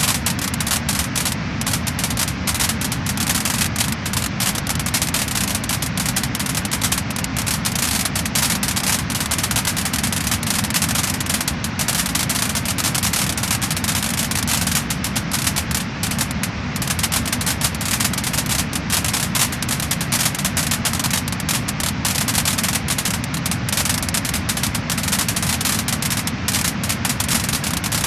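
Wood-burning fire crackling and popping steadily: many quick snaps over a constant hiss.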